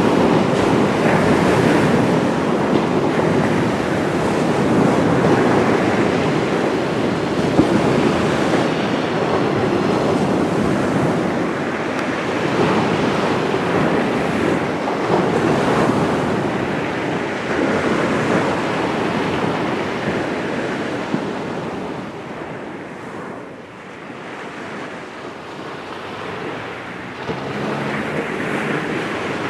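Steady rushing of wind on the microphone and water at the shoreline, surging and easing, quieter for a few seconds about three-quarters of the way through. A faint low hum comes in near the end.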